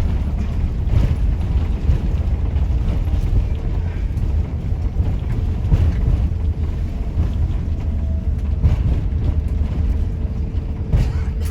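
Steady low rumble of engine and airframe noise inside the cabin of an Airbus A350 during landing, with a few scattered knocks.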